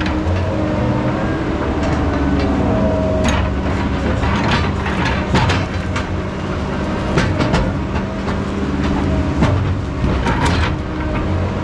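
Heavy diesel machinery running steadily, with repeated sharp metallic clanks and knocks and an occasional rising and falling whine.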